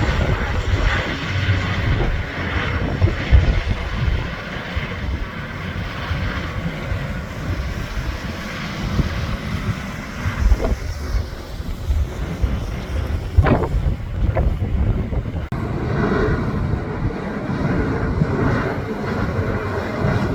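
Jet airliner engine noise close to the runway, mixed with heavy wind buffeting on the microphone. A few short, sharp sounds come around the middle.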